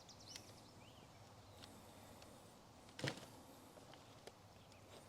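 Near-silent outdoor quiet with a few faint, short high chirps in the first two seconds and a single sharp click about three seconds in.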